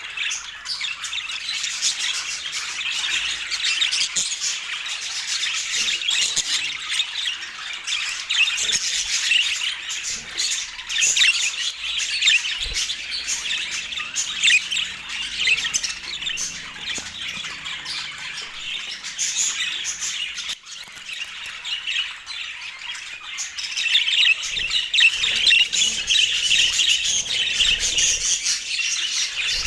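Budgerigars chattering without pause, many short high calls overlapping, growing a little louder near the end.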